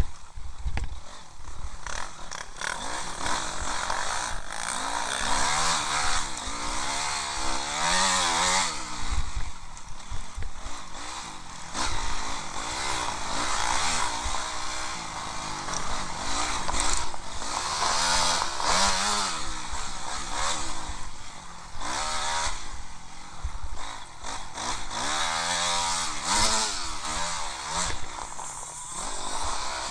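Honda CRF250R's four-stroke single-cylinder motocross engine revving up and dropping off again and again as the rider accelerates, shifts and backs off around the track, heard through a helmet-mounted camera's microphone.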